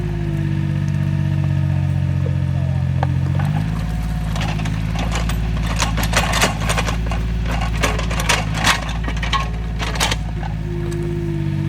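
Small excavator's engine running steadily, its note changing about three and a half seconds in, with a run of sharp knocks and clinks through the middle.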